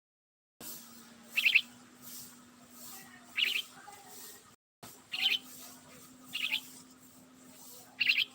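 A bird chirping: short, sharp calls repeated five times, about every one and a half to two seconds, over a faint steady hum. The sound cuts out completely twice, briefly.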